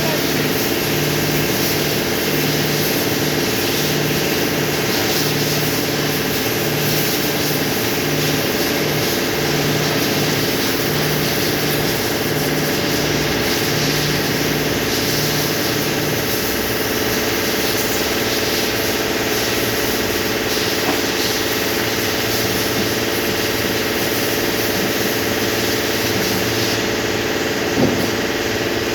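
A machine runs steadily with an engine-like drone. A low hum pulses on and off about once a second for the first half, then holds steady. There is one short click near the end.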